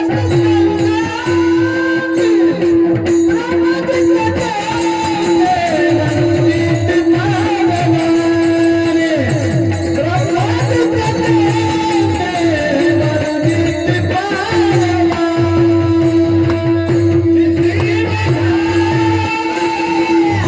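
Marathi Warkari devotional bhajan in raga Bhairavi: a high voice sings a melody in long gliding phrases over a steady held drone note. Hand cymbals and a drum keep a continuous beat.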